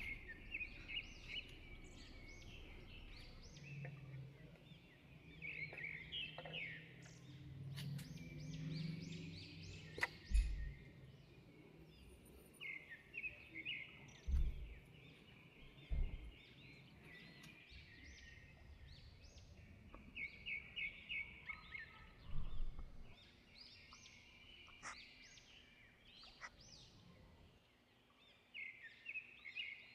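Small birds chirping and singing in quick repeated series of high notes, with a few dull knocks in between.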